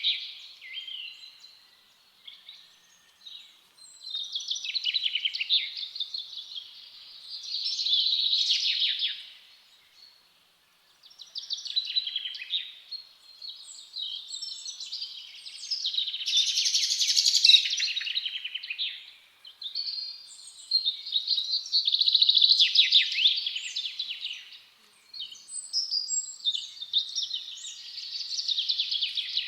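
Songbirds singing: a run of fast, high chirping and trilling phrases, each a few seconds long, with short pauses between them.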